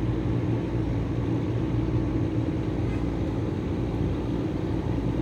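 Steady low drone of an engine or motor running, with an even hum and no change in pitch.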